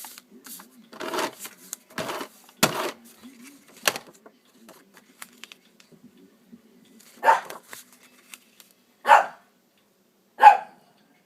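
Pet dog barking in single short barks, three spaced about a second and a half apart in the second half, with a few sharp knocks and clicks earlier on.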